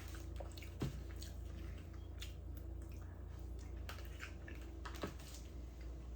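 A person eating close to the microphone: faint wet, squishy chewing with scattered small clicks, and two louder knocks, about a second in and again near five seconds.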